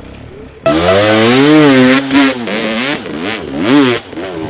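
Enduro dirt bike engine revving hard. It comes in suddenly loud under a second in, and its pitch swings up and down several times as the throttle is worked.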